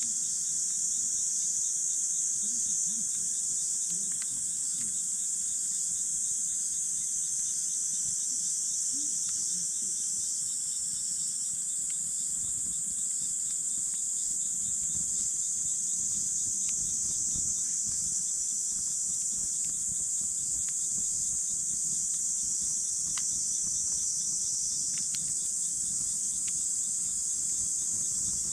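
Insects chirring steadily and high-pitched around the camp, with a few sharp snaps from a wood campfire crackling in the second half.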